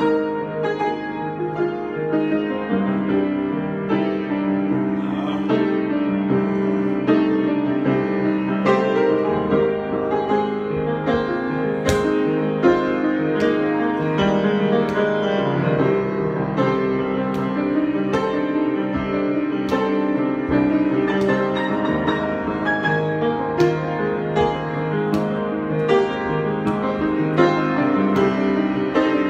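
Piano improvisation: sustained chords with notes played over them at a steady, unhurried pace.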